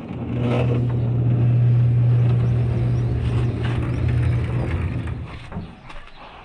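Can-Am Maverick X3 side-by-side's engine running at a steady speed, a loud low hum that fades away about five and a half seconds in.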